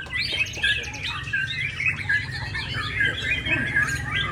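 White-rumped shama (murai batu) singing a continuous, varied song of quick whistled and chattering phrases, over a steady low hum.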